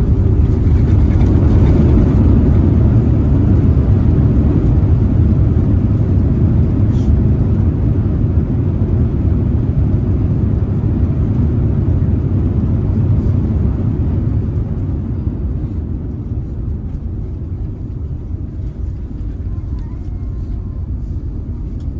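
Cabin noise inside an Airbus A350-900 with Rolls-Royce Trent XWB engines on landing: a loud, steady, low rumble of engines and airflow that eases off about fifteen seconds in as the aircraft slows.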